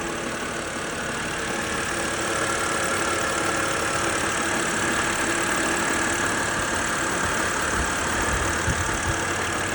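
2007 BMW 328i's inline-six engine idling steadily under the open hood, running with no suspicious noises.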